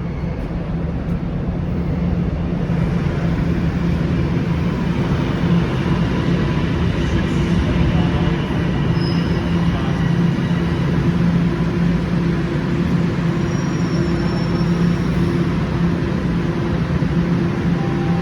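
TTC Line 1 subway train running: a loud, steady rumble with a low hum. It swells over the first couple of seconds, then holds level.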